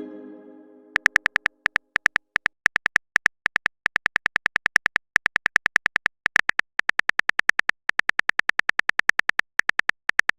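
Typing sound effect of a phone keyboard: rapid, uneven clicks, several a second, in runs with short pauses. The fading tail of a message chime opens it.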